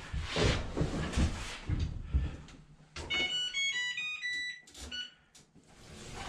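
A few handling knocks and clatter, then about three seconds in the Whirlpool Cabrio washer's control panel plays a quick run of electronic beeps at changing pitches as the machine is switched on and a cycle is started.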